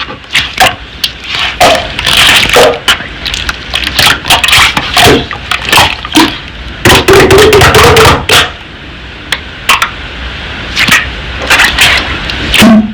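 Slime being squished and pressed by hand, giving an irregular run of sticky clicks and popping air pockets.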